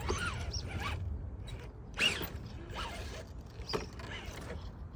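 Scale RC rock crawler working its way over an obstacle: scattered short creaks and clicks from its drivetrain and suspension, over a low steady rumble.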